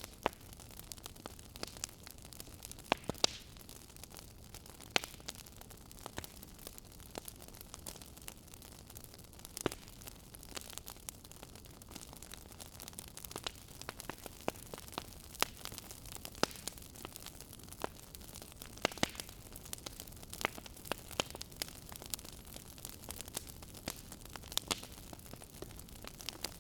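Wood fire burning in a fireplace: a steady soft hiss with irregular sharp crackles and pops, several a second.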